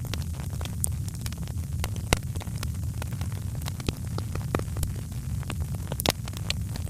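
Wood fire in a fireplace crackling, with irregular sharp pops over a steady low rumble of the flames; one louder pop comes about six seconds in.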